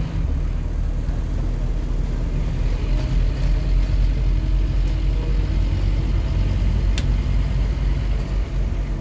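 Scania N230UD OmniCity double-decker bus's five-cylinder diesel engine running with a steady low rumble, with one sharp click about seven seconds in.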